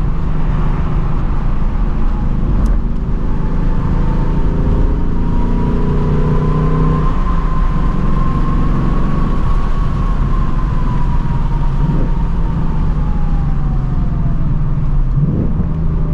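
Stock 2024 Ford Mustang GT's 5.0-litre V8 with active exhaust, cruising at steady revs. A faint whine sits over it, rising slowly and then falling away in the second half.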